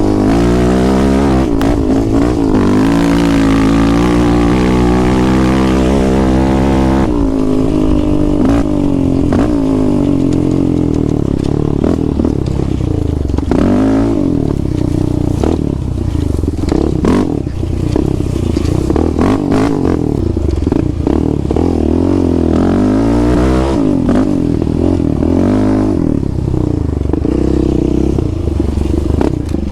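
Sport quad engine under hard riding, revving up and backing off over and over, its pitch climbing and dropping with each pull.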